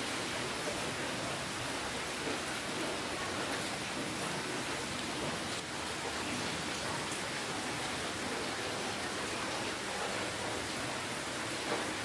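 Steady rainfall: a dense, even hiss of rain with faint scattered drop ticks.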